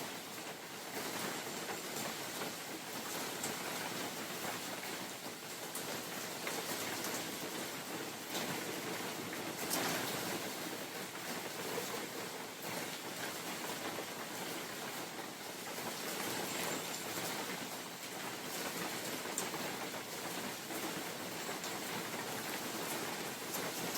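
Steady rain falling in a forest, a continuous hiss with scattered individual drop ticks, swelling louder for a moment about ten seconds in.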